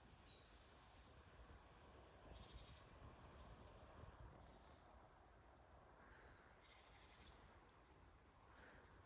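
Near silence: faint outdoor ambience with thin, high bird chirps every second or two.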